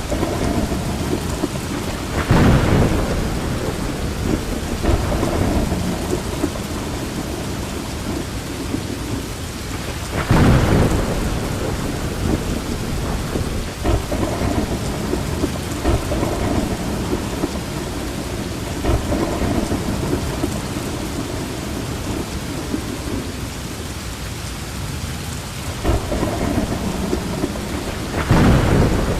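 Steady rain with low rolling thunder, with louder claps of thunder about two seconds in, about ten seconds in, and near the end.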